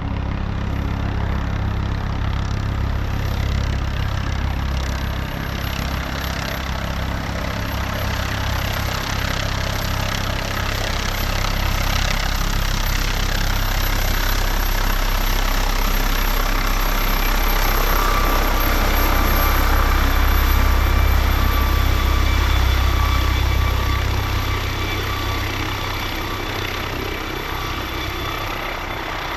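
Airbus H225 helicopter's twin turbine engines and rotor running on the ground: a steady low rotor rumble under a thin high turbine whine, swelling louder about two-thirds of the way through, then easing back.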